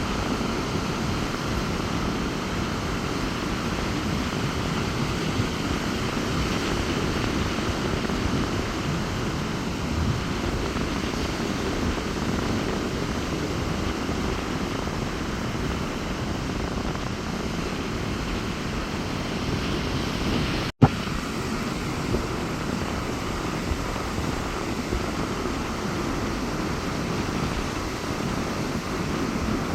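Rough storm surf washing onto a beach under strong wind, a steady heavy rumble with wind buffeting the microphone. The sound cuts out for an instant with a click about two-thirds of the way through.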